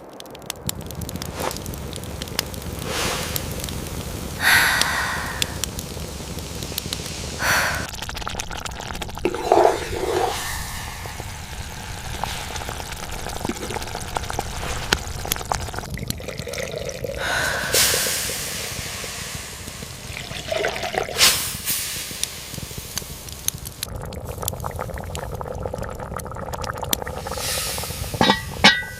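Water being poured and sloshed in several short spells over a steady hiss of rain.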